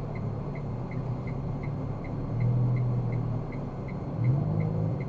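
Low, steady engine and road drone heard inside a car cabin, swelling briefly about four seconds in. A faint, regular ticking runs over it, about three ticks a second.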